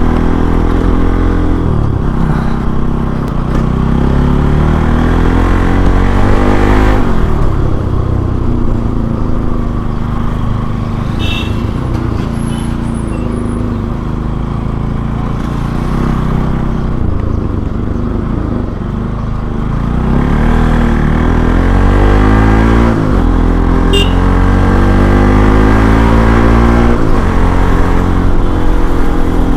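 Bajaj Pulsar NS200's single-cylinder engine accelerating hard through the gears: the pitch climbs, drops sharply at each upshift and climbs again, several times, with a steadier cruising stretch in the middle.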